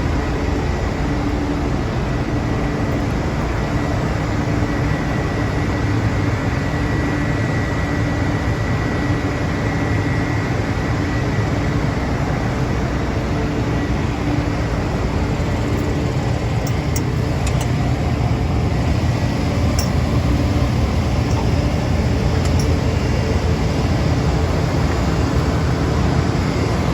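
New Holland CR9.80 combine harvester running steadily, its engine and machinery giving a constant mechanical hum with a few faint high ticks about two-thirds of the way through.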